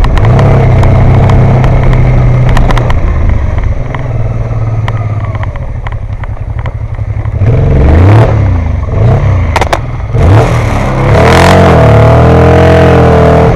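Motorcycle engine running steadily, easing off, then revving up and down several times a little past the middle and holding higher revs near the end, with scattered clattering knocks.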